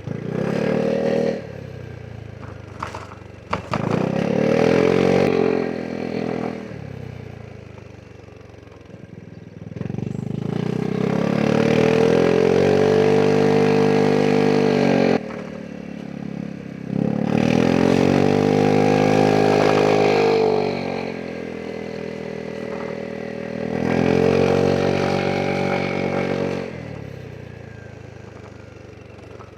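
Vespa GTS 300 scooter's single-cylinder four-stroke engine under way, opened up and backed off again and again in a series of accelerations. The longest pull is about ten seconds in and lasts several seconds before the throttle shuts off abruptly. A few sharp clicks come near the start.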